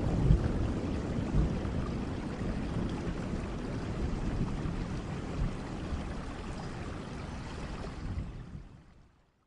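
Rain falling: a steady rushing patter that slowly weakens and fades out near the end.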